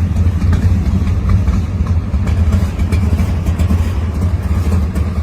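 Muscle car engine idling loudly with a steady, choppy low rumble.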